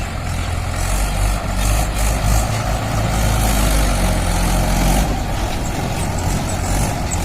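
Heavy diesel engine running under load, a loud low rumble that swells louder between about one and five seconds in, then eases back.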